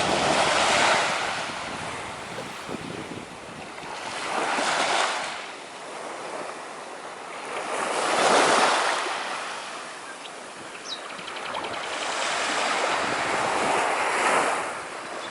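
Ocean waves washing in, the surf swelling and fading about four times.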